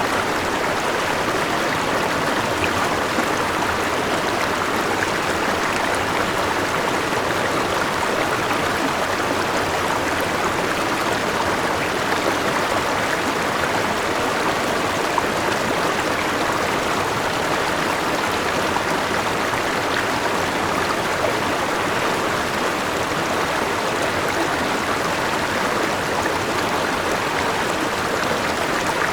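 A forest river rushing steadily over a small waterfall, an even wash of flowing water with no breaks.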